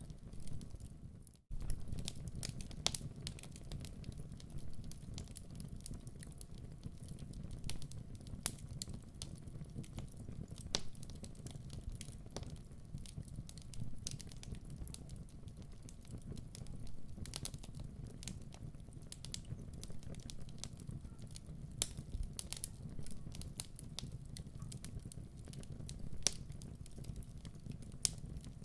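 Wood fire crackling in a fireplace: irregular sharp pops and snaps over a steady low rumble of burning. The sound drops out briefly about a second and a half in, then resumes.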